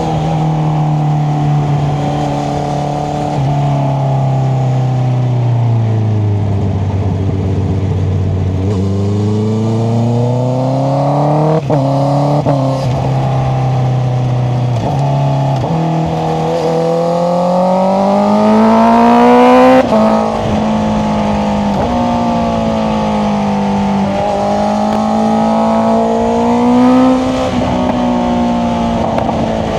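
Honda CBR650R's inline-four engine with an Akrapovic exhaust under way. The revs fall off, then climb hard through quick upshifts about twelve and fifteen seconds in, peak loudest near twenty seconds, then drop and hold steady with small rises.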